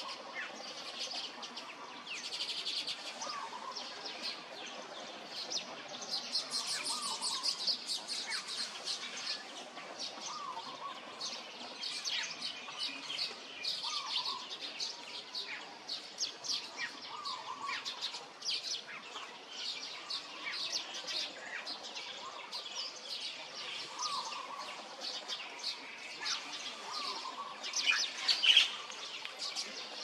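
Small songbirds chirping and twittering rapidly and continuously, with a lower call repeating every couple of seconds; the loudest burst of chirps comes near the end.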